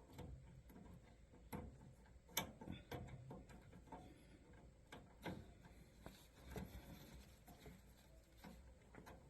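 Near silence with faint, irregular clicks and taps from wires and small connectors being handled while a motor's leads are hooked up.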